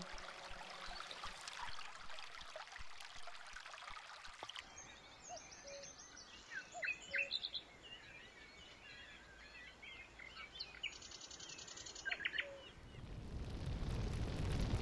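A faint, even trickle of a stream for the first few seconds, cut off suddenly by woodland birdsong: scattered short chirps and a quick rattling trill. Near the end a low rushing noise swells up and grows louder.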